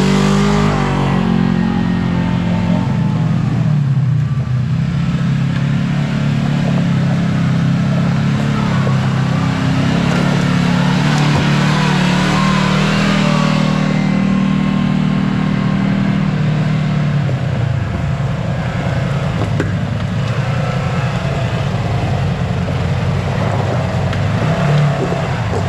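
Kawasaki KRX4 1000 side-by-side's engine running while driving on a trail, its pitch rising and falling with the throttle, easing off and picking up again about two-thirds of the way through.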